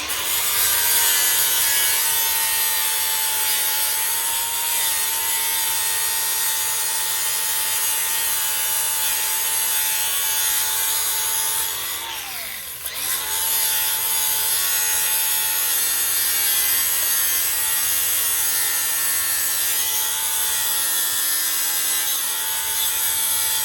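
Angle grinder cleaning up welds on steel: a steady motor whine over a harsh grinding hiss. About halfway through it is let off, winds down briefly and spins back up.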